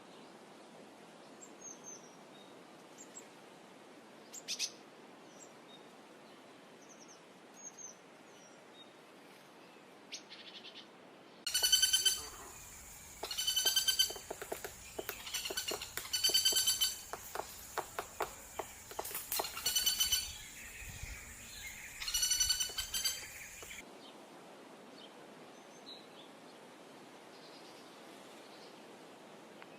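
Woodpecker calling: loud bursts of rapid, repeated ringing notes, mixed with sharp taps, from about eleven seconds in to about twenty-four seconds. Before and after, only faint bird calls over quiet woodland ambience.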